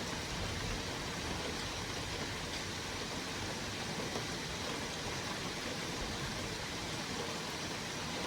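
Steady hiss of heavy rain during a thunderstorm, even and unchanging, with no thunderclap in this stretch.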